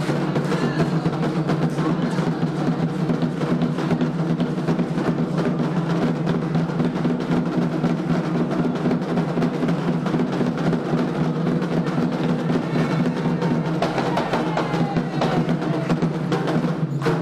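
Candomblé ceremonial drumming on atabaque hand drums, a dense, fast, unbroken rhythm that stops suddenly at the end.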